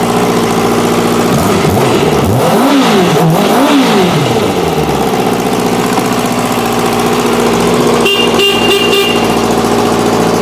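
2007 Kawasaki ZX-6R inline-four engine idling, then revved twice, each rev rising and falling over about a second, before settling back to a steady idle. The bike is running, showing the engine works.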